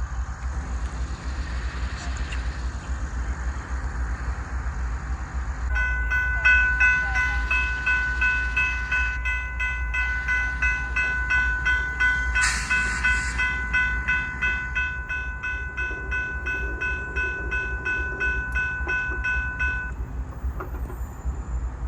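Railroad grade-crossing bell ringing at an even pace of about two strokes a second. It starts about six seconds in and stops a couple of seconds before the end, over a low steady rumble. A brief hiss sounds midway through the ringing.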